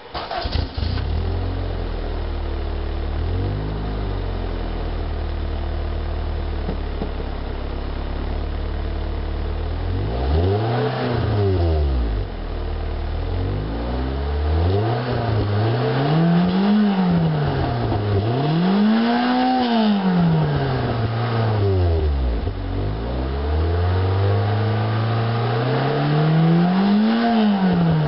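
1987 Chevy Nova four-cylinder engine and exhaust starting up at the very beginning, idling steadily, then being revved several times from about ten seconds in, each rev rising and falling back to idle.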